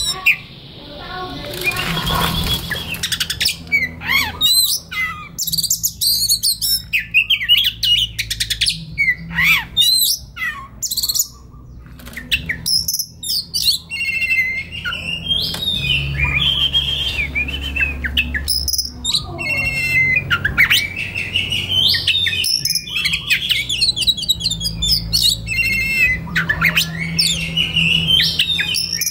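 Oriental magpie-robin (kacer) singing a continuous, varied song of whistles, rising and falling glides and rapid trills.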